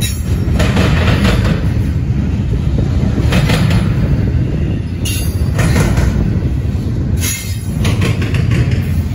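A double-stack intermodal freight train's container well cars rolling past: a steady, loud low rumble of steel wheels on the rails, with brighter rushes of wheel noise every second or two.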